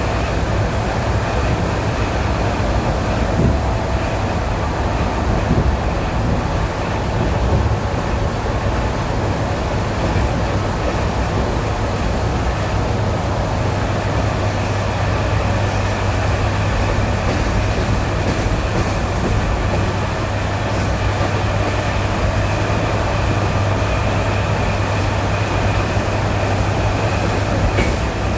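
ED9E electric multiple-unit train running on jointed track, with steady rumble and a low hum from the running gear and short knocks as the wheels pass over rail joints. Faint steady whining tones ride over the noise.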